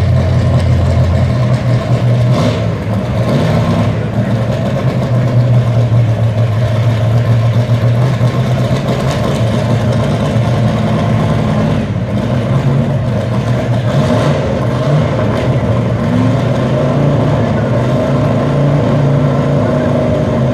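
Truck engine running loud and steady at high revs, typical of a truck under load pulling a sled.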